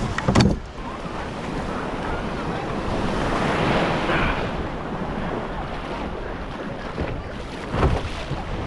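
Sea waves washing with wind buffeting the microphone. The wash swells midway. There are a couple of sharp knocks about half a second in and a thump near the end.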